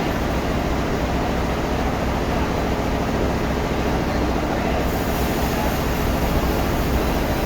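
Sawmill machinery running with a steady, loud, noisy din, growing a little brighter in its highest hiss about five seconds in.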